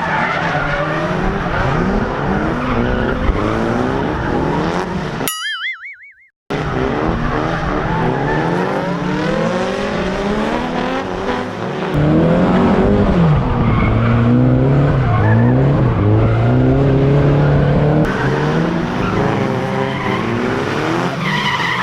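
Drift cars at full throttle, engines revving up and down as they slide, with tyres squealing, in several cut-together stretches. About five seconds in, the sound drops out for about a second, broken by a short fast-wobbling tone.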